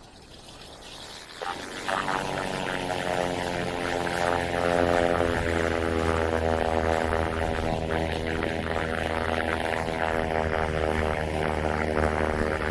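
Twin-engine propeller aircraft departing: a propeller drone that swells in suddenly about a second and a half in, then runs loud and steady with a buzzing, many-toned hum.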